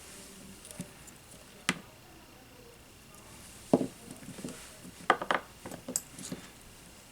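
Small tools and parts being handled and set down on a workbench: a sharp click, a heavier knock a couple of seconds later, then a quick cluster of light clicks and taps.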